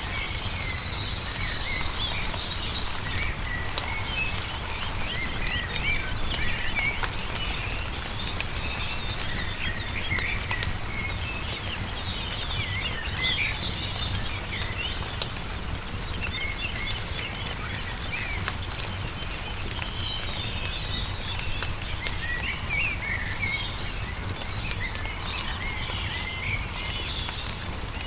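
Small birds chirping and twittering all through, over the frequent small pops and crackles of a burning wood fire and a steady low rumble.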